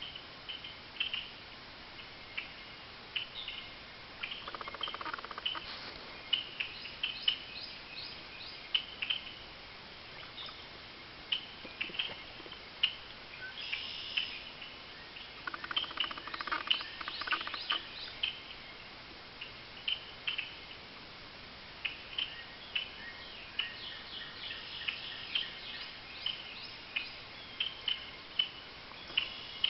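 Small songbirds chirping: many short high call notes, one every second or so, with busier flurries of calls in a few stretches.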